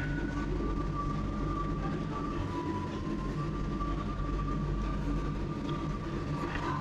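Steady mechanical hum of a revolving-sushi restaurant's conveyor-belt lanes running, with a thin whine that shifts pitch slightly partway through.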